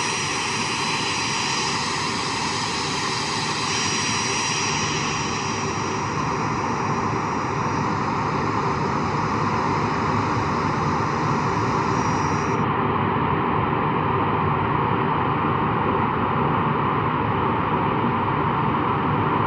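Boeing 737-400's CFM56-3 turbofan engine running steadily during a ground run-up for a parameter check: a continuous jet rush with a thin high whine over it, getting slightly louder about halfway through.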